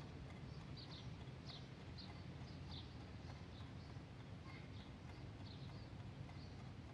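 Faint chirps of small birds, short high notes about once or twice a second, over a low steady hum of room ambience.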